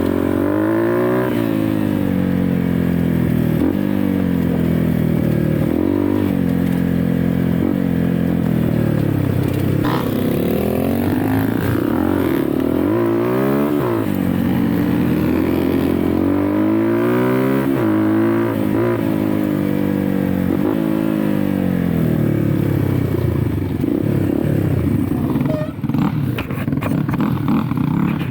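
Dirt bike engine being ridden hard off-road, its pitch rising and falling every second or two as the rider opens and closes the throttle and shifts. Near the end the engine eases off and a few sharp knocks come through.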